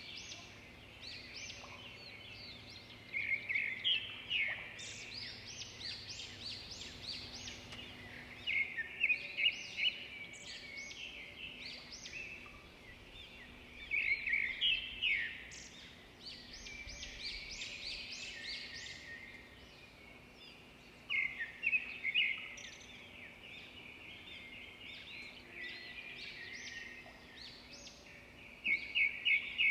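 A chorus of several songbirds chirping and singing. Every several seconds a louder run of quick repeated notes stands out over the steady background twittering.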